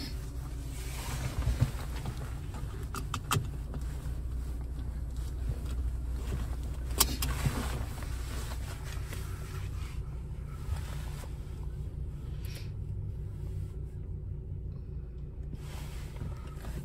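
2015 Honda Civic Si's 2.4-litre K24 four-cylinder engine idling, a steady low hum heard from inside the cabin, with a few light clicks.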